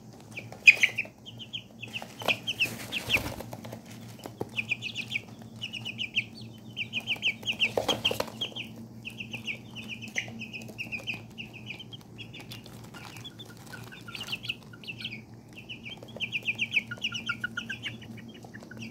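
Young chicks peeping in quick, high runs of short calls, with a few sharp knocks and scuffs among them. A steady low hum runs underneath.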